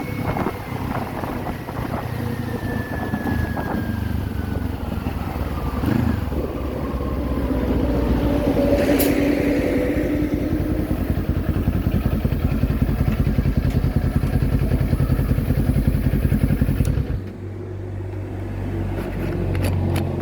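Kawasaki Z400 parallel-twin engine running under way with wind noise over the microphone, a whine falling in pitch as it slows. Near the end the wind noise cuts off suddenly and the engine settles to a steady low idle.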